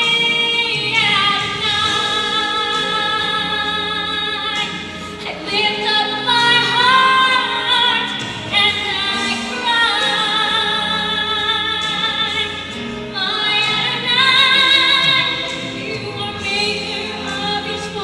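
Music: a singer holding long, sustained notes with vibrato in an operatic style, over accompaniment.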